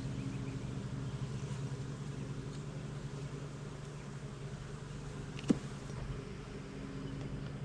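Honey bees buzzing in a steady low hum around an open hive, with one sharp knock about five and a half seconds in.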